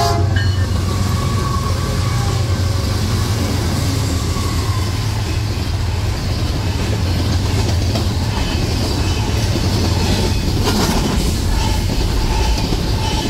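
BNSF double-stack intermodal freight train passing at speed: its diesel locomotives go by first, then container well cars, with a steady low rumble and wheel clatter on the rails. A single sharp knock about eleven seconds in.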